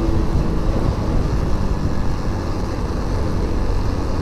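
Motorcycle under way at a steady cruising pace: the engine runs evenly, under wind and road noise on the rider's microphone.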